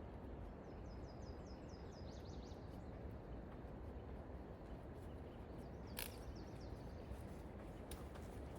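Outdoor forest quiet with a steady low background hiss. A bird sings a quick run of high, falling chirps about a second in and a shorter run around five seconds in. A sharp click comes just after the second run.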